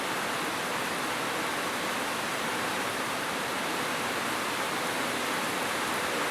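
Heavy rain falling on a roof: a steady, even hiss with no thunder.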